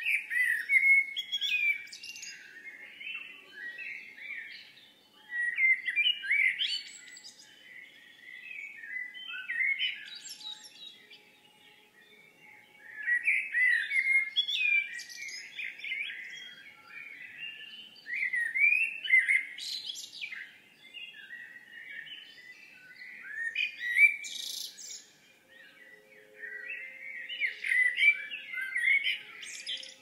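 Songbirds singing: short twittering, warbling phrases that come in bursts every few seconds.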